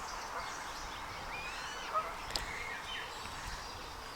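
Waterbirds calling on a lake: a few short, scattered calls over a steady outdoor hiss, with one brief click near the middle.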